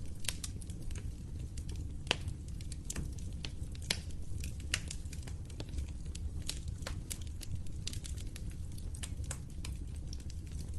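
Wood fire crackling: irregular sharp pops and snaps, several a second, over a steady low rumble of the burning.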